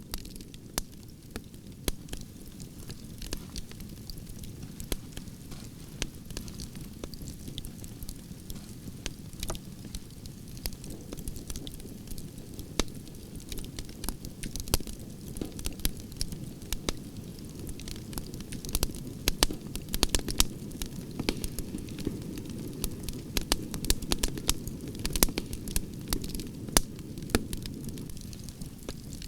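Branches burning in an open campfire: a steady low rumble of flames with frequent sharp, irregular crackles and pops of the burning wood.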